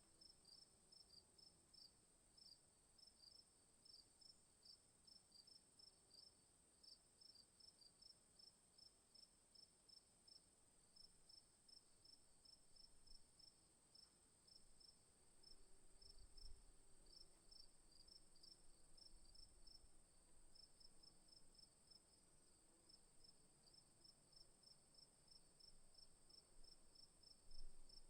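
Faint insect chorus: a steady high-pitched drone with a rapid, even train of chirps, about four a second.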